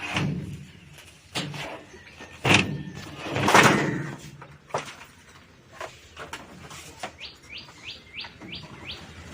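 A few sharp knocks and a longer scraping clatter as washing machine parts are handled, the loudest a bit over three seconds in. Near the end, a bird chirps a quick run of about six rising notes.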